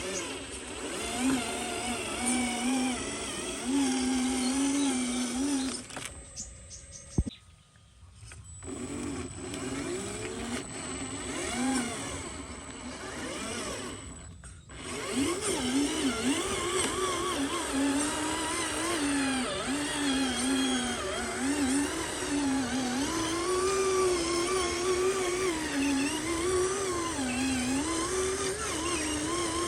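Small electric motors of radio-controlled model vehicles whining, the pitch rising and falling as the throttle changes, with two brief lulls in the first half.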